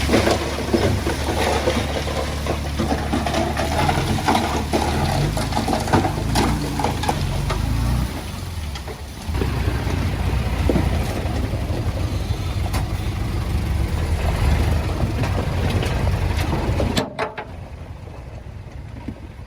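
Diesel engine of heavy earthmoving equipment running, with scattered clicks and knocks of stone and metal over it. Near the end the sound drops suddenly to a much quieter engine hum.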